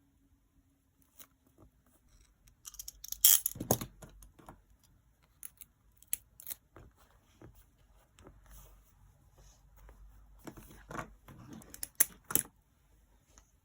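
Journaling supplies being handled on a desk: small clicks, taps and rattles of stationery being picked up and set down, with two busier bursts of clattering, one about three seconds in and one near the end.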